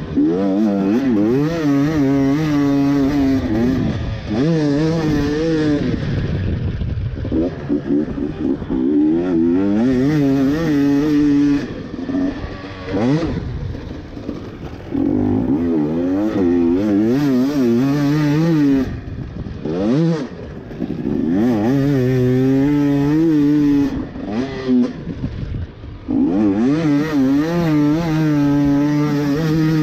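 Two-stroke Husqvarna TE250i enduro bike's engine being ridden hard on a motocross track, its revs repeatedly rising and falling, with a few short drops when the throttle is closed.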